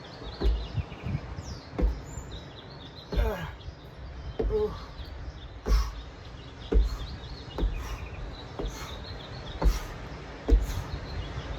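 Birds chirping in outdoor ambience, with dull thumps about once a second.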